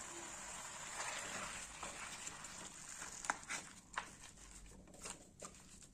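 Fish, tomatoes and chillies frying with a light, steady sizzle in a steel wok. About halfway in, a wooden spatula starts stirring, with sharp knocks and scrapes against the pan.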